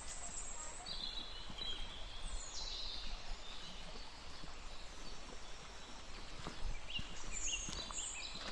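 Steady hiss of rain in mountain woodland, with a few faint high bird calls about a second in and again near the end.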